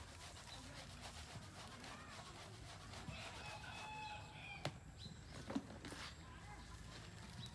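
A rooster crowing faintly about three seconds in, followed by two sharp knocks about a second apart.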